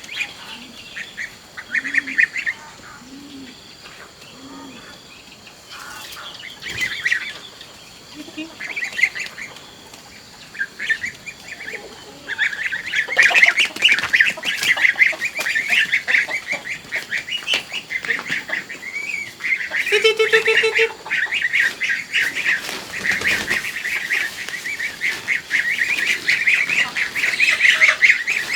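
A flock of ducks quacking: scattered calls at first, then from about halfway through a dense, continuous chorus of rapid quacks.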